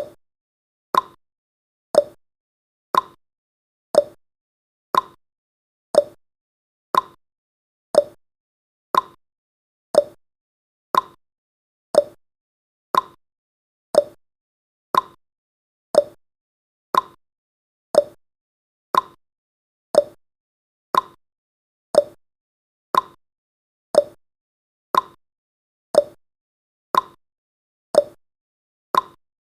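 Countdown timer's ticking sound effect: one short, sharp tick every second, evenly spaced, like a clock marking off the seconds.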